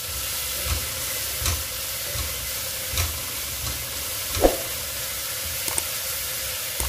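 Curry paste sizzling as it fries in a metal pot, with a spatula stirring and scraping against the pot; one sharper knock about four and a half seconds in. The paste is being fried until fragrant, the first step of a laksa broth.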